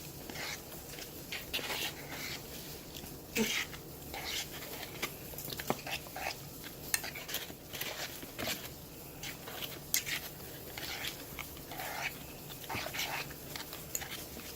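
Scattered light clicks and clinks of dishes and utensils during a home meal, with a few brief mid-pitched sounds in between.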